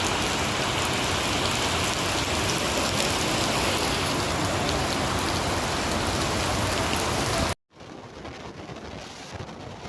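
Heavy rain pouring down, a dense steady hiss. About three-quarters of the way through it cuts off abruptly, giving way to a much quieter steady rushing noise.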